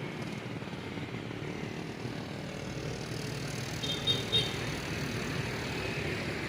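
Steady rumble of outdoor vehicle traffic, with two short high chirps about four seconds in.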